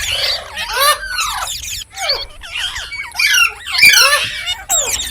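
Indian ringneck parakeet chattering: a rapid, continuous run of squeaky chirps and whistles that glide up and down in pitch.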